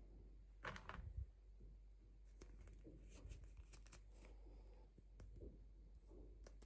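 Faint handling of toy packaging: soft rustles and scattered small clicks, with a brief louder rustle about a second in.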